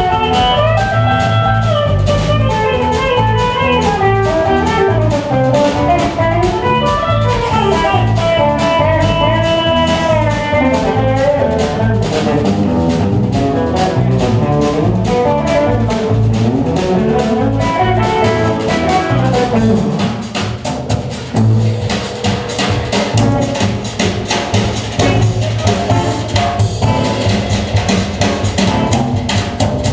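Live band playing an instrumental passage: a lead melody line over bass and drum kit. About 18 seconds in, the lead line falls away and the drums take over with dense, fast hits.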